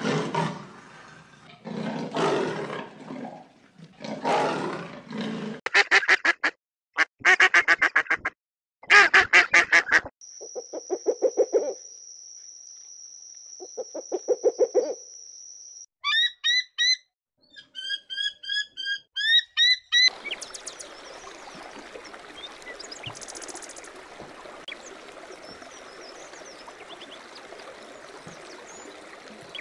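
A string of separate animal-call clips: repeated harsh calls, then rapid quack-like pulsed calls, then a steady high whistle over low calls, then short bird chirps. About twenty seconds in it changes to running water with faint bird calls.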